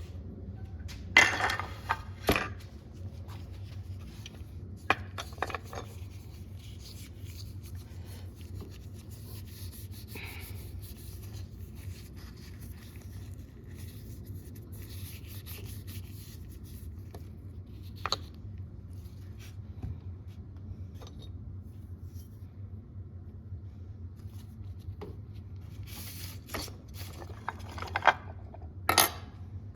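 Hand work on a restored leather awl: continuous rubbing and scraping over a steady low hum. Sharp clicks and knocks come a second or two in, once around the middle, and in a cluster near the end.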